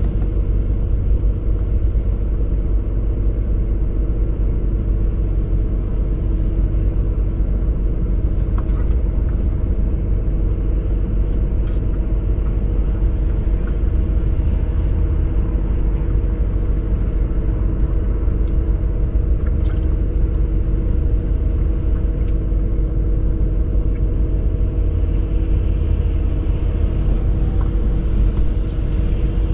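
BMW E39 540i's 4.4-litre V8 running steadily, an even low rumble with no revving, with a few faint clicks on top.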